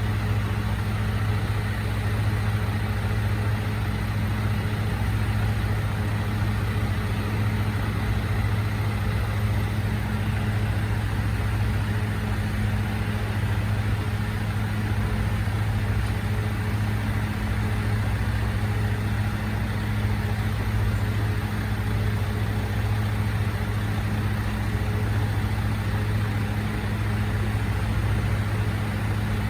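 Recycling truck's engine idling steadily, a constant low drone that does not change.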